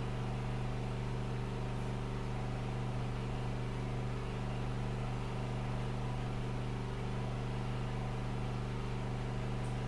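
Steady low machine hum with several tones layered together and a faint hiss, unchanging throughout.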